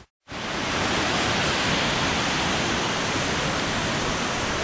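Steady rushing of a creek and small waterfall, an even roar of water that cuts in abruptly after a split-second gap.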